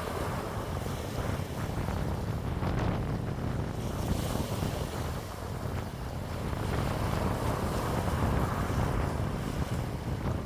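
Wind blowing steadily, with a low rumble of wind buffeting the microphone that swells and eases a little.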